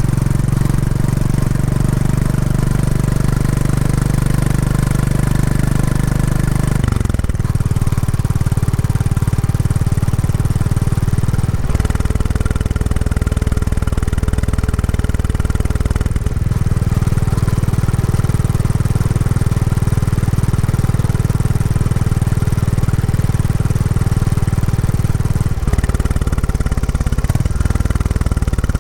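Royal Enfield Classic 350's single-cylinder engine running through its stock exhaust while being ridden during break-in. Its low note is steady, with four abrupt changes in pitch, each marked by a brief dip.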